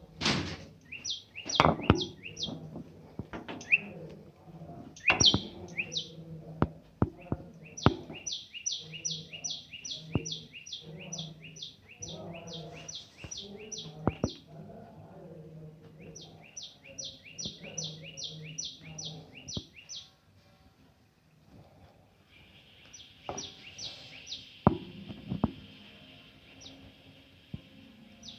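A small bird calling in fast runs of short, sharp, falling chirps, several a second, with pauses between runs. A few sharp knocks sound in between.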